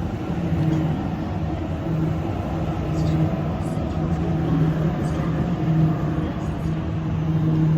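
A train at a railway station giving a steady low hum with two level tones, over a background of rumble and noise.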